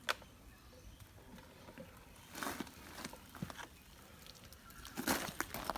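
Handling noises of a workshop job: scattered small clicks, then two short bursts of scraping and clattering, about two and a half and five seconds in, as the rusty wrench is taken out of an electrolysis bath.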